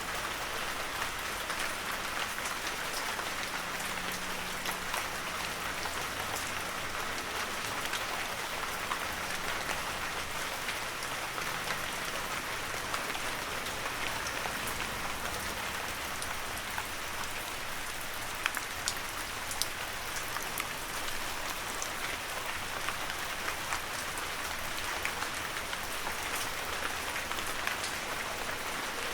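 Heavy rain falling steadily, a dense even hiss with scattered sharper drop taps, a few louder ones near the middle.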